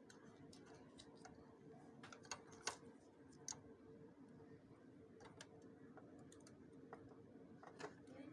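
Faint, scattered small clicks and taps of hands working on plastic parts of a copier's document feeder, over a low steady hum.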